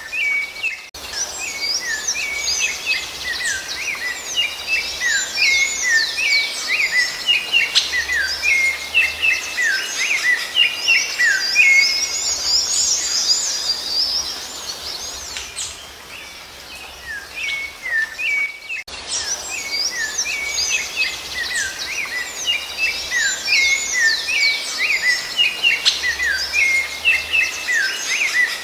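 A dense chorus of songbirds: many short, overlapping chirps and whistled notes sweeping up and down, with a short break about a second in and again a little past two-thirds of the way through.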